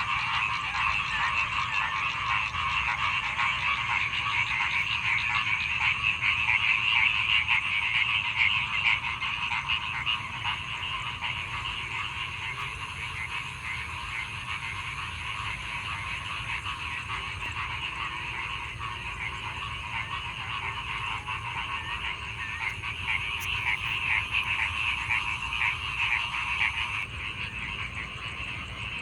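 Chorus of many frogs calling at once, a dense mass of overlapping short croaks, louder in the first third, easing off in the middle and swelling again near the end.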